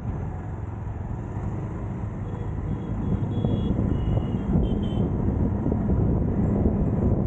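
Road traffic noise and wind rushing on the microphone, heard from a moving vehicle, growing louder about halfway through. A few short, high beeps sound in the middle.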